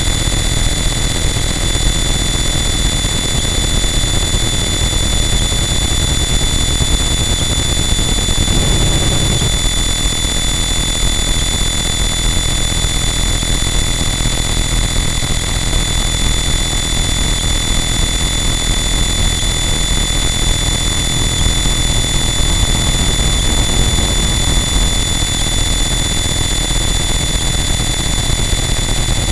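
Harsh noise wall: a loud, dense, unchanging wall of distorted static with steady high whistling tones running through it. A brief swell in the lower range comes about nine seconds in.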